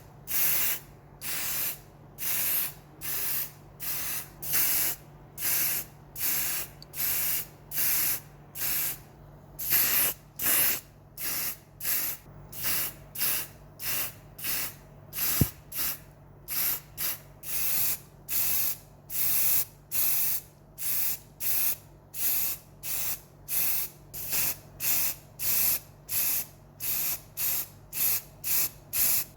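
Spray paint hissing in short, rapid bursts, about two a second and quickening near the end, as the model's parts are sprayed in quick passes. A single sharp click sounds about halfway through, and a faint steady hum runs underneath.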